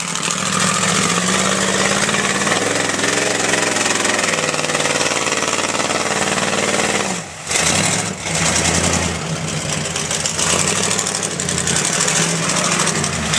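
Truck engine running, its pitch shifting up and down in steps, with a brief drop in level about seven seconds in.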